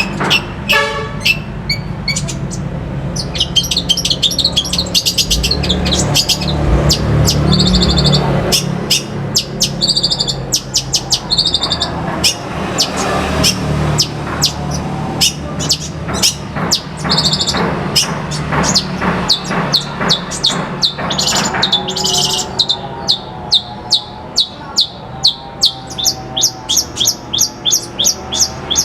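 Long-tailed shrike (pentet) singing a fast, varied stream of sharp notes, clicks and chatter. In the last several seconds it switches to a run of harsh repeated notes about three a second. A low hum runs underneath in the first half.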